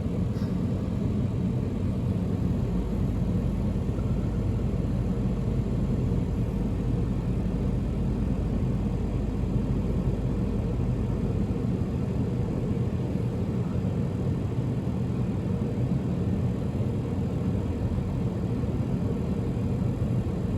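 Car engine idling, heard from inside the cabin as a steady low hum while the car waits in line.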